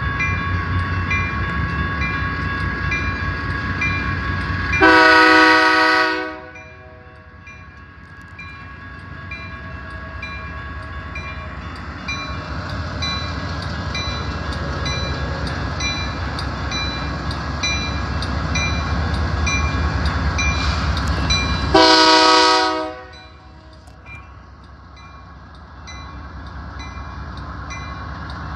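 Union Pacific diesel freight locomotives passing with a steady engine rumble, sounding two horn blasts about 17 seconds apart, each just over a second long. A grade-crossing warning bell dings rapidly under the rumble until shortly before the second blast.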